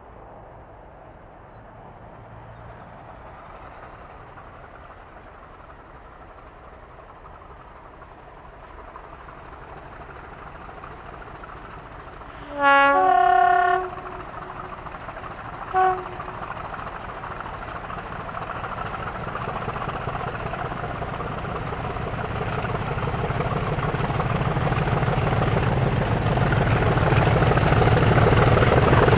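Diesel locomotive approaching, its engine growing steadily louder, with a faint high whine that climbs in pitch as it comes. About twelve seconds in it sounds a two-tone horn, a low note then a higher one, and gives a short toot about three seconds later.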